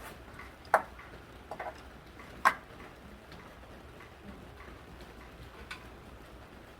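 A few sharp clicks or taps: two loud ones about two seconds apart, a couple of softer ones between them and one more near the end.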